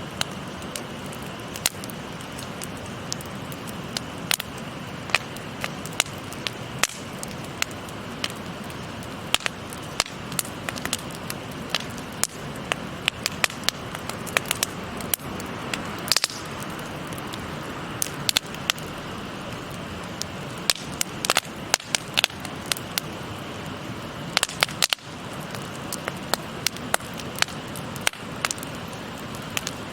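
Wood fire crackling with frequent sharp, irregular pops, over the steady rush of a babbling stream.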